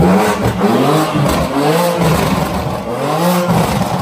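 Car engine revved in about four short blips, each pitch rising and falling back, loud and continuous.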